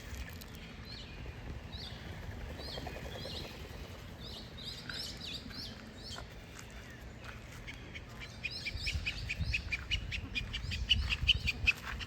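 Birds calling: a string of short, separate high chirps in the first half, then a faster, louder run of calls in the last few seconds.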